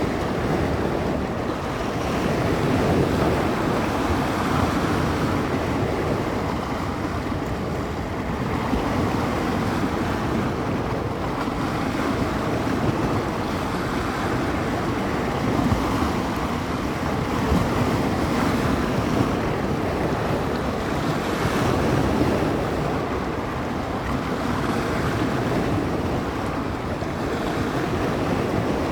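Small bay waves breaking and washing along the shore, the wash swelling and easing every few seconds, with wind gusting against the microphone.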